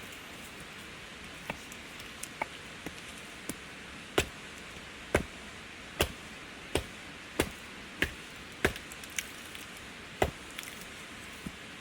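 A series of chopping strikes on wood. A few light taps come first, then about ten hard, sharp blows follow each other roughly every two-thirds of a second, with one last blow a little later.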